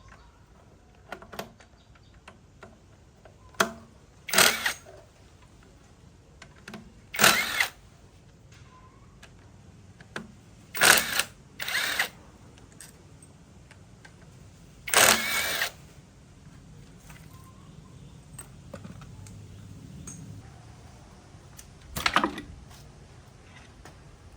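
Workshop repair noises on a diesel tiller: scattered light metal clicks and clinks, broken by a series of short, harsh bursts each lasting under a second.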